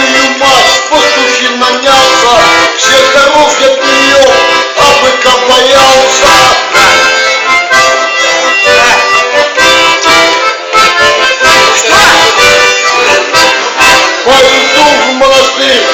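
Accordion playing a tune loudly and without pause, with chords and a steady rhythm.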